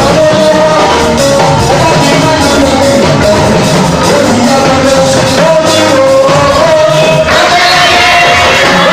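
Loud church service music: a voice singing a held, wavering melody over instrumental accompaniment.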